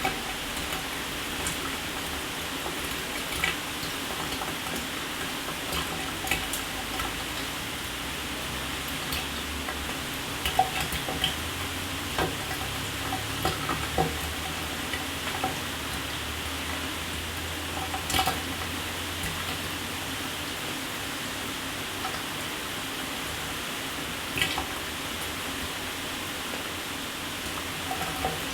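Shower spray running steadily, water falling and splattering, with occasional louder splashes and drips.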